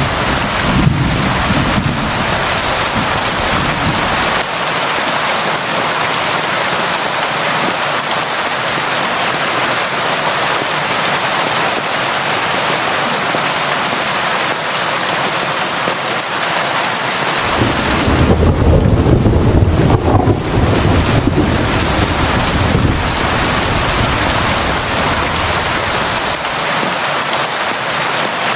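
Constant rain, a steady even hiss, with a deep rumble underneath in the first few seconds and again from about two-thirds of the way through.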